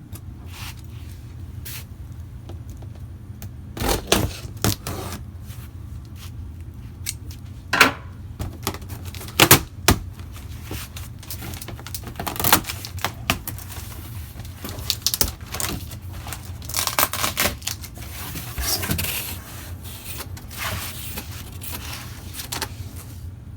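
A cardboard shipping box being handled and opened: irregular knocks and thuds against the cardboard, with scraping and tearing of cardboard and packing tape, over a steady low hum.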